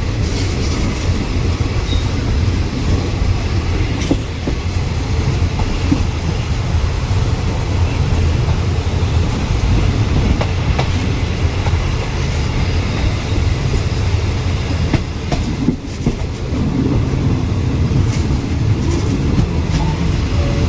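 Running noise heard aboard a moving passenger train: a steady low rumble from the wheels on the track, with occasional clicks and knocks as the carriage rolls along.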